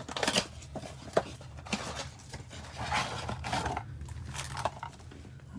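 Trading-card packaging being handled and torn open: irregular crinkling and tearing noises with a few sharp clicks.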